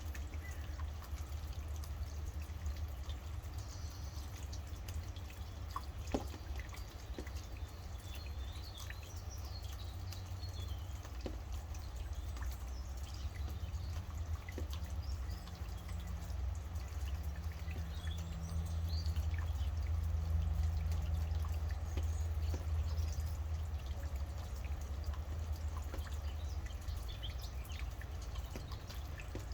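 Rain dripping, with scattered individual drops ticking, over a steady low rumble. Birds chirp faintly now and then.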